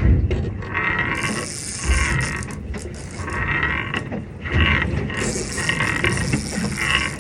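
Fishing reel drag ratcheting as line is pulled off by a hooked fish, in repeated surges about half a second to a second long.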